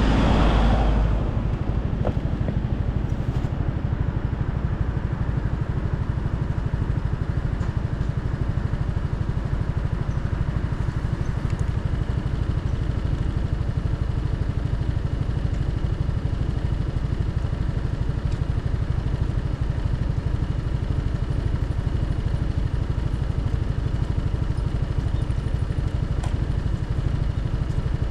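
Motorcycle engine running steadily at low revs, with a rush of wind noise on the microphone that dies away about a second in.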